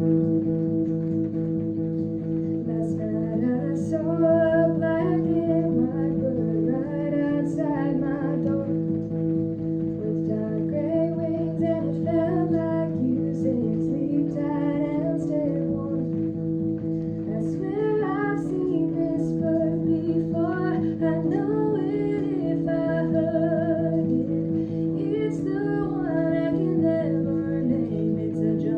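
A woman singing, accompanied by a guitar that she plays. The guitar runs steadily throughout, and her voice comes in about three seconds in, continuing in phrases.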